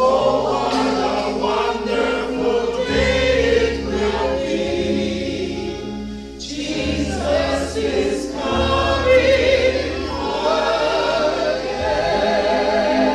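A congregation singing a gospel hymn together over an accompaniment that holds low bass notes. A long note with vibrato is held near the end.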